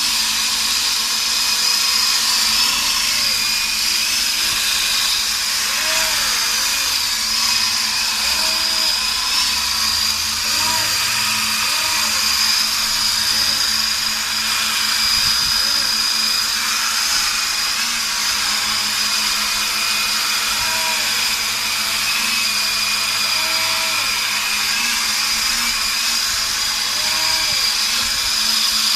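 Radio-controlled helicopter's small electric motor running steadily, a high whine that wavers slightly in pitch.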